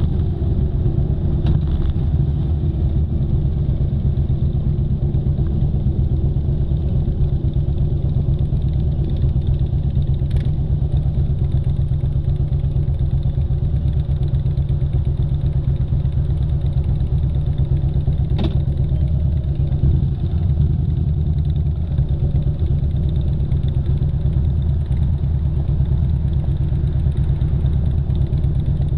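Motorcycle engine running at a steady pace while riding, a constant low drone with two brief clicks partway through.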